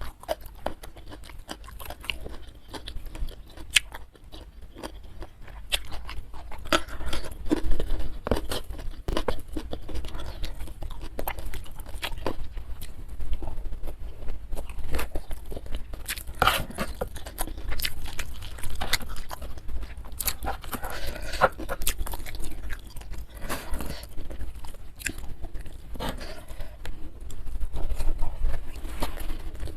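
Close-miked chewing and crunching of food, with irregular crackles and wet mouth sounds.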